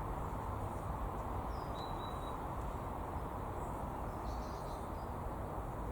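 Steady low outdoor background rumble and hiss, with a few faint high bird chirps about one and a half seconds in and again near four and a half seconds.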